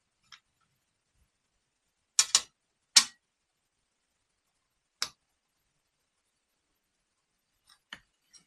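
Sharp clicks and clacks of small metal and plastic starter-motor parts being handled and set down on a bench: a quick double click about two seconds in, a louder single a second later, another about two seconds after that, and faint ticks near the end.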